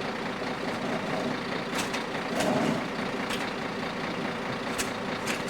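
Peterbilt Maxon side-loader garbage truck's diesel engine running steadily, with a handful of short sharp knocks over it and a brief louder swell midway.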